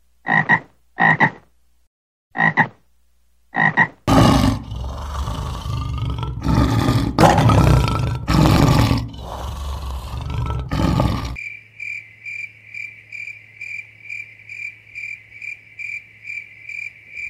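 A frog croaks four times, short and spaced out, then a male lion roars repeatedly and loudly for about seven seconds. After that comes a steady high chirping that pulses about three times a second.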